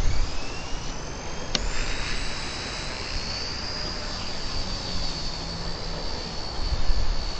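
XK K100 micro RC helicopter's motor and rotors spooling up with a steeply rising whine, then holding a steady high-pitched whine, with one sharp click about a second and a half in. Wind buffets the microphone with a low rumble.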